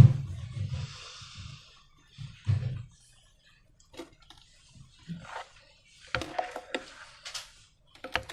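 Slime being squeezed and handled with rubber balloons: scattered short, wet squishes and crackles, with a sharp snap right at the start, the loudest sound.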